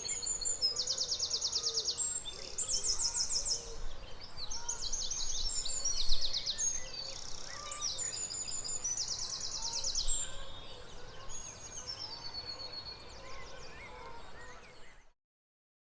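Dawn chorus of several songbirds singing over one another: high trills of fast repeated notes, each about a second long, among shorter chirps and whistles. It cuts off suddenly near the end.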